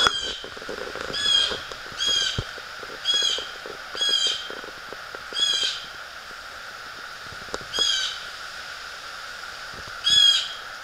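A bird calling outdoors: eight short calls, a few close together near the start and then more spaced out, each dropping slightly in pitch, with a loud last one near the end.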